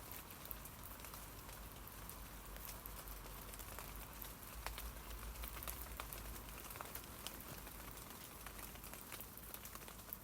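Rain falling on tree leaves: a soft, steady patter with many separate drop taps.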